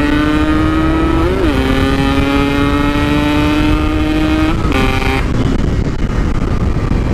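Yamaha RX-King two-stroke single-cylinder motorcycle engine pulling hard under acceleration through its aftermarket exhaust, the pitch climbing steadily with a brief dip and recovery about a second in, like a gear change. About five seconds in the throttle is shut and the engine note falls away, leaving wind and road noise.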